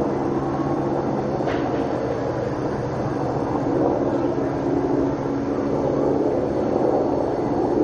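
Steady rumble of heavy machinery with a low drone and no distinct impacts.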